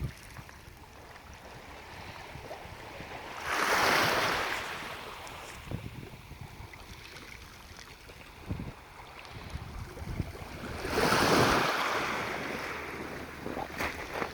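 Black Sea waves breaking on the shore: two surges of surf, about 4 seconds in and again about 11 seconds in, each building and then washing away. Wind buffets the phone's microphone with a low rumble between them.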